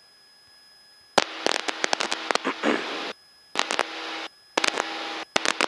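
Cessna 172's engine and cabin noise during climb-out, heard through the headset intercom. It is silent for about the first second, then cuts in and out in blocks as the intercom's voice-activated squelch opens and closes, with sharp clicks in each block.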